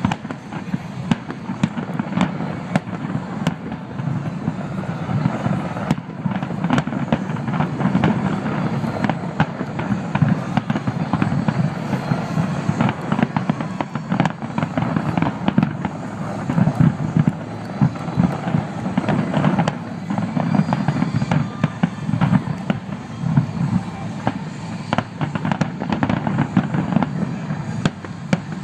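Aerial fireworks display going off in a dense, continuous barrage of sharp bangs and crackles, many a second, over a steady low rumble.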